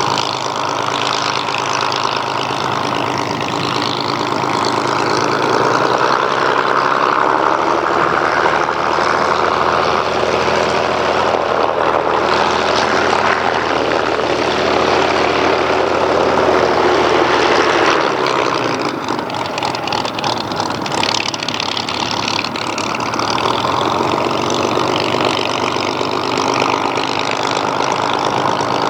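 Hawker Hurricane's Rolls-Royce Merlin V12 piston engine running with its propeller, a steady multi-toned drone. It grows louder and shifts slightly in pitch through the middle, then eases back about two-thirds of the way through.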